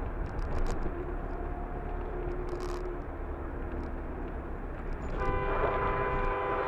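Steady road and engine rumble from inside a moving car. About five seconds in, a car horn sounds and is held on one steady note.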